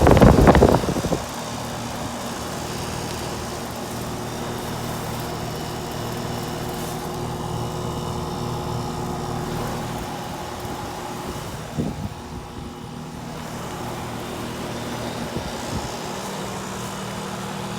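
2005 Rheem 2.5-ton central air conditioner condenser unit running: a steady compressor hum with the whoosh of the condenser fan, which has a newly replaced fan motor. A loud burst of noise in the first second stands out above the hum.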